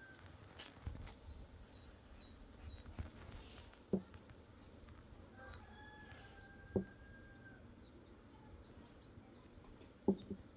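Small birds chirping over a faint outdoor background, with one long steady whistled note around six seconds in. A few sharp knocks, the loudest sounds, come about four and seven seconds in, then a quick double knock near the end.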